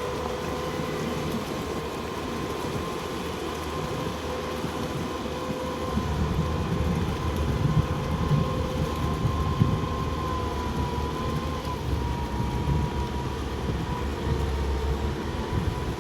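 Tractor engine running steadily with a low rumble and a thin, steady whine over it.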